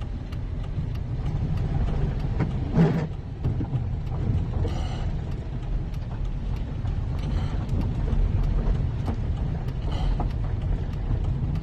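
Steady low rumble of a van driving, heard from inside, with a brief swish every two to three seconds.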